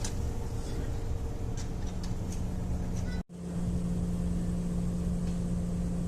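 Steady low rumble of a train running, with a steady low hum. The sound cuts out for an instant about three seconds in, then resumes with the hum louder.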